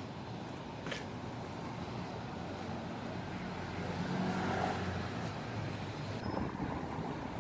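City street traffic: a steady hum of passing vehicles that swells louder about four seconds in, with a single sharp click about a second in.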